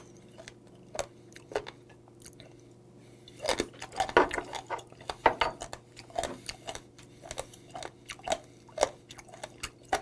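Close-miked chewing of warty sea squirts (mideodeok): wet smacking and short sharp clicks, one or two a second, with a louder, busier stretch of mouth noise about halfway through.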